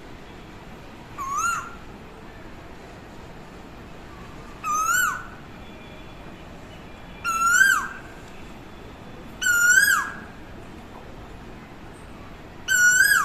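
Asian koel (koyal) calling: five clear, rising whistled notes, each about half a second long and a few seconds apart. The calls grow louder after the first.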